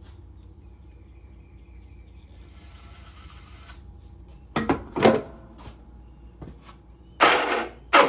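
Electric starter of a Kohler Magnum 14 single-cylinder engine, cranked in short bursts: two quick bursts a little past halfway and a longer, louder one near the end. The starter is harsh, which the owner calls terrible.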